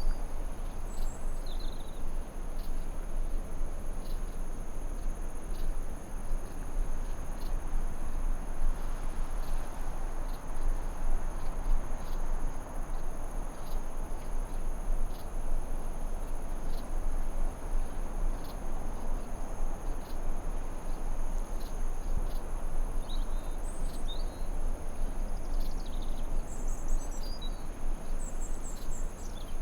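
Forest ambience: a steady rushing hiss under a continuous high-pitched cricket-like insect trill, with scattered short bird chirps, several of them near the end.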